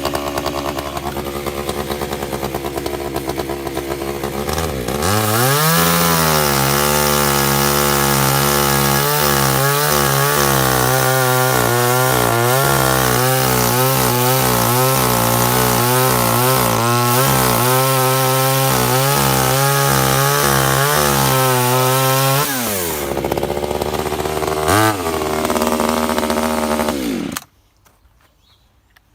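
Echo CS3400 top-handle chainsaw's small two-stroke engine idling, then revved up about five seconds in and held at high speed with its pitch wavering as it cuts through a log. It drops back to an idle that is a little high and needs adjustment, then cuts off near the end.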